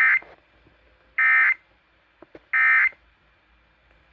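Emergency Alert System end-of-message code: three short, loud bursts of buzzy digital data tones, each about a third of a second long and about 1.3 s apart, signalling the end of the alert.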